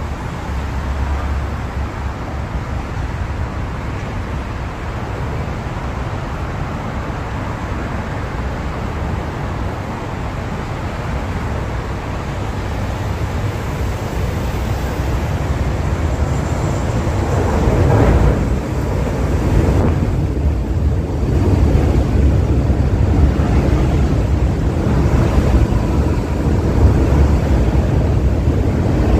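Steady street-traffic noise on an open elevated platform, then a first-generation MTR M-Train electric multiple unit approaching and running in along the platform, its rumble growing louder through the second half.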